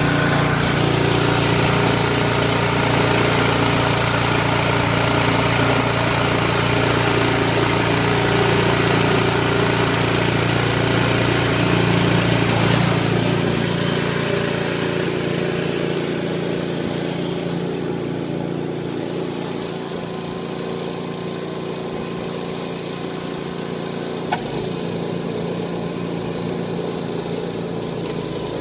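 Snowblower's Tecumseh single-cylinder engine running steadily after an electric-start cold start. It gets quieter about halfway through and keeps running at a lower level, with one sharp click near the end.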